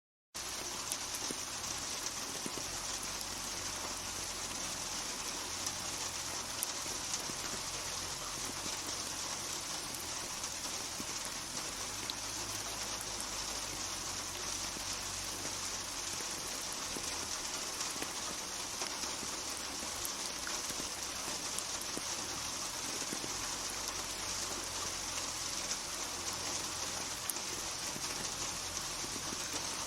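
Steady rainfall with scattered individual drop ticks, cutting in suddenly from silence just after the start and then holding an even level.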